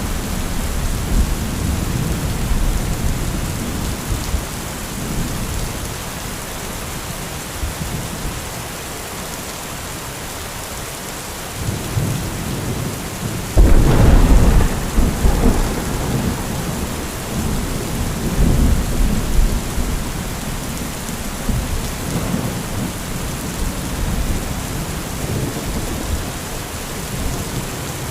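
Heavy thunderstorm: steady rain with thunder. Rumbling at the start dies away, then about halfway through a sudden loud thunderclap strikes and is followed by several seconds of rolling rumble, with lighter rumbles near the end.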